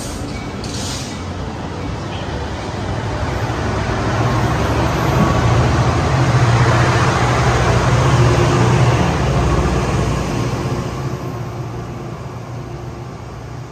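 NJ Transit diesel-hauled passenger train pulling out of the station past the platform, wheels rumbling on the rails. The sound grows louder until the locomotive at the rear draws level, with a low engine drone, about seven to nine seconds in, then fades as the train moves off.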